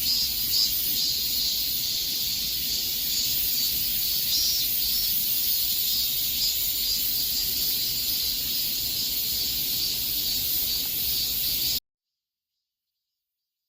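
Chorus of cicadas, a steady high buzz with a slight pulsing. It cuts off suddenly about twelve seconds in.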